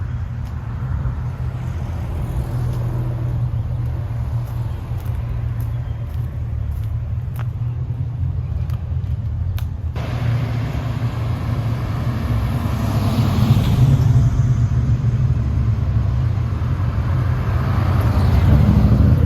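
Car engines running with a steady low rumble, with two louder swells of vehicle noise in the second half, as cars move around.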